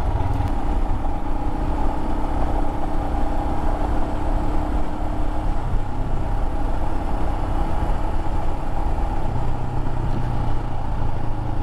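Royal Enfield Himalayan single-cylinder engine running steadily under way at road speed, over a steady rushing noise. Its note shifts about nine seconds in.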